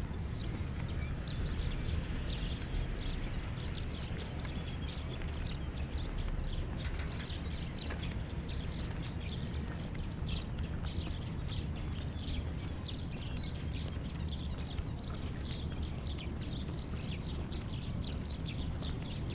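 Small birds chirping in quick, irregular calls over a steady low rumble of outdoor background noise.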